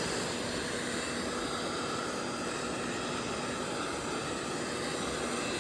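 Handheld propane torch running steadily, its flame rushing as it heats a stuck part on the hydraulic pump shaft to free it.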